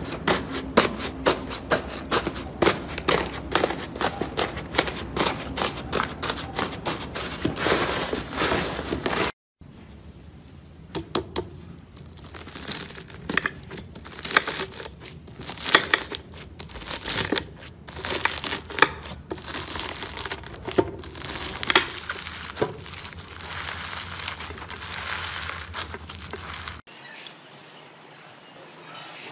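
Hands squishing and poking slime: a fast run of sticky clicking pops for about nine seconds. After a brief cut comes a sparser series of crackles and pops, then a quieter stretch near the end.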